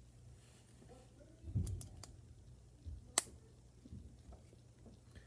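LEGO pieces being handled and fitted together: soft knocks and a few light clicks, with one sharp click about three seconds in.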